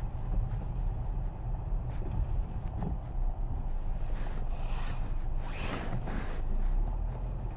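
Car running on snowy roads, heard from inside the cabin as a steady low rumble of engine and tyres, with a rising and fading hiss of tyres on slush a little past the middle.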